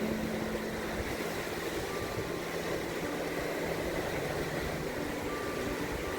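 Steady wash of ocean surf and wind at a sandy beach. A few faint held tones at changing pitches sit over it.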